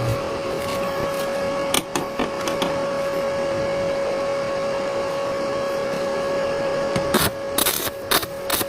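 A small electric motor running with a steady whine at one pitch, with a few sharp clicks or knocks about two seconds in and several more near the end.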